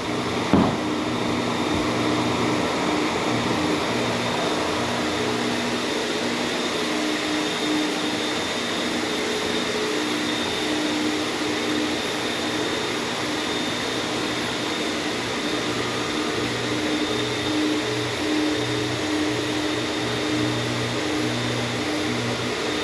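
Floor machine fitted with a Hyper Grinder four-disc steel head running steadily as it grinds paint off a wood floor with 40-grit discs: a constant motor hum under a steady abrasive hiss. There is a brief knock about half a second in.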